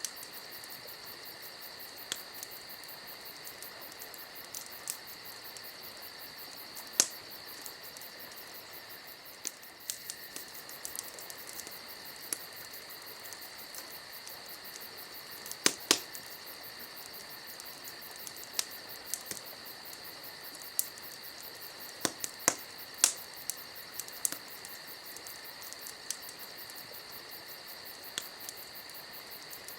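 Campfire crackling, with scattered sharp pops, the loudest at about 7, 16 and 22–23 seconds. Behind it runs a steady high chirring of insects.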